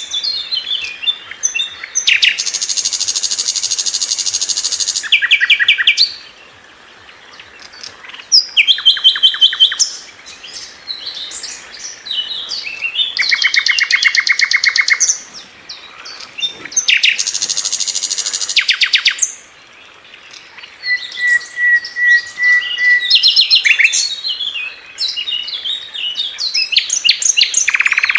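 Sikatan londo flycatcher singing a varied song: loud, very fast rattling trills of two to three seconds alternate with quick jumbled chirps, and a short held whistle comes about two thirds of the way through.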